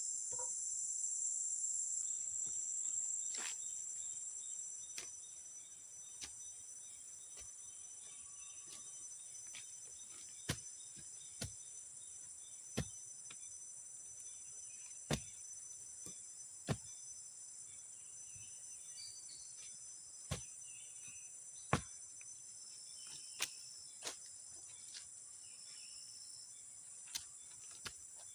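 Steady high insect chorus, louder for the first few seconds and then softer, with sharp single knocks every second or two from about ten seconds in.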